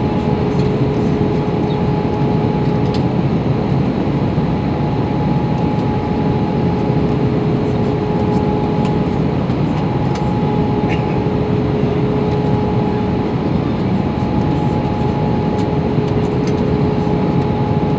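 Steady cabin noise of an Airbus A321 in flight, heard inside the cabin: an even rush of engine and airflow noise with two faint steady hums running through it.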